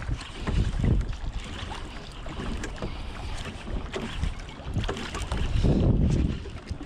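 Wind gusting across the microphone in uneven surges, with scattered light knocks and ticks.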